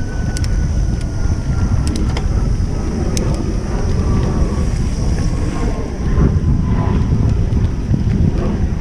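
Mountain bike on a dirt trail, heard from a bike-mounted camera: steady wind buffeting on the microphone and tyre rumble, with scattered sharp rattling clicks from the bike. A faint tone falls slowly in pitch through the first part.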